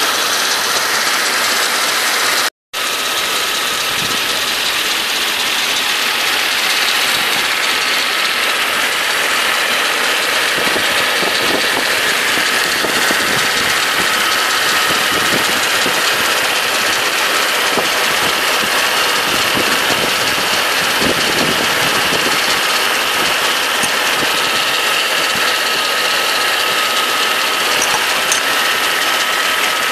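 Mercedes-Benz W140 S500's V8 engine idling steadily, heard close up in the open engine bay as a dense mechanical running of the engine and its belt-driven accessories. A faint, thin steady whine sits in it through the second half.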